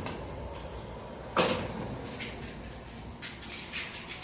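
Kitchen handling sounds: a few short knocks and rustles, the loudest about a second and a half in, with a small cluster near the end.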